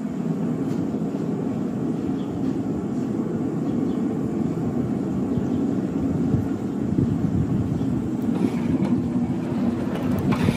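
Workshop machinery running steadily with a low rumble, with a few faint ticks near the end.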